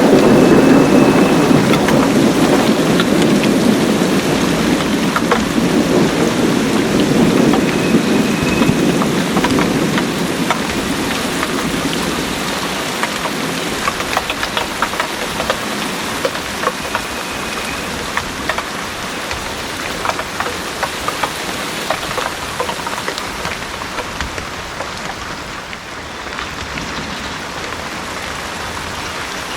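Heavy rain pouring on a garden. A roll of thunder rumbles at the start and dies away over the first ten seconds or so, leaving steady rain with close drips.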